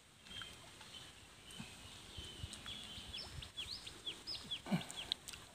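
Small birds chirping: many quick, high chirps that fall in pitch, coming in runs, with a few soft low knocks underneath.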